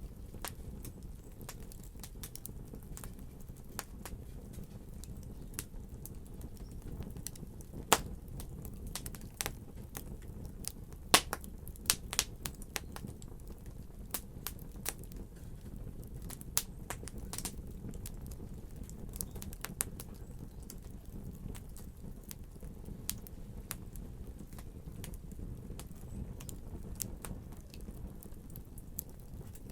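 Fire crackling, with irregular sharp pops and snaps, the loudest about eight and eleven seconds in, over a steady low rumble.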